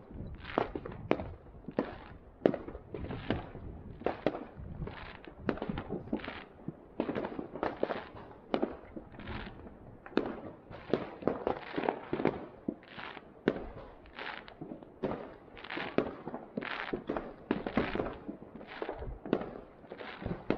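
Distant fireworks going off one after another: an irregular, unbroken run of bangs and pops, two or more a second.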